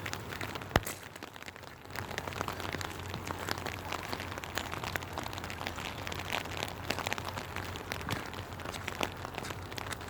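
Rain falling, a dense patter of individual drops, with a steady low hum underneath. A single sharp knock stands out just under a second in.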